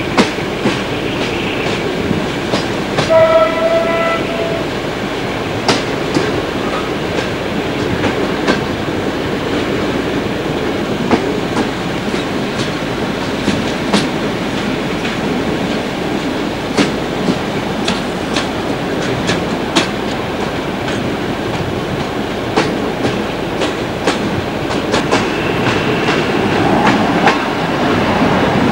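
Passenger train running on jointed rails, heard from an open carriage window: a steady rumble with irregular clicks of the wheels over rail joints. About three seconds in, the diesel locomotive's horn sounds once, briefly.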